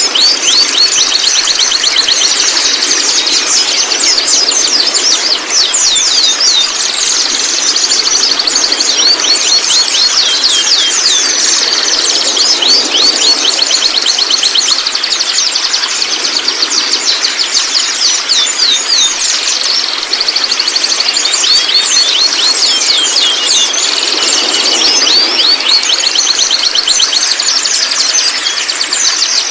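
Young white-rumped shamas chattering: rapid runs of quick, sweeping high notes, repeated many times a second in bursts of a few seconds. Under them runs a steady high hiss and tone.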